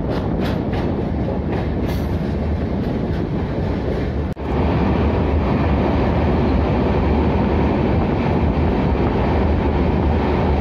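Passenger train running on the rails, heard from aboard a coach: a steady rumble of wheels and track. After a brief drop-out about four seconds in, the rumble comes back louder as the train runs through a tunnel.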